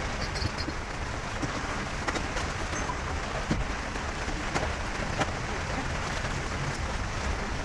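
Steady heavy rain falling, with scattered sharp taps of individual drops striking a hard surface.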